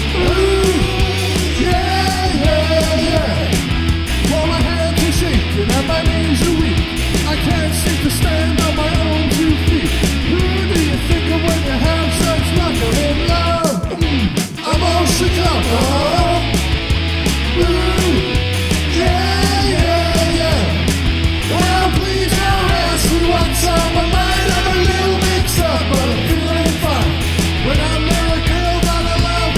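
Loud punk-rock band music, with a brief drop in the full sound about halfway through.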